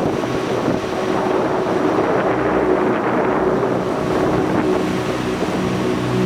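Strong gusty thunderstorm wind driving rain, a dense steady rushing with wind buffeting the microphone.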